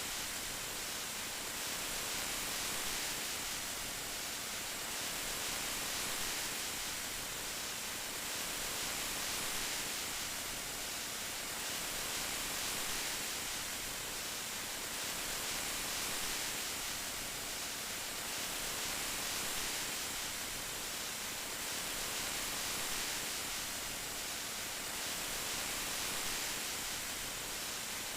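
Steady rain: an even hiss of falling rain that swells and eases gently every few seconds.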